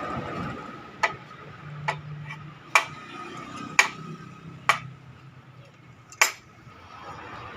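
Six sharp metal clinks, spaced about a second apart, like hand tools or small metal parts knocking during engine disassembly. A faint steady hum runs underneath.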